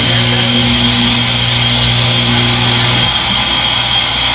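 Front-load washing machine running in its spin, a steady whirring noise with a constant high whine from the motor; the low hum underneath drops out about three seconds in.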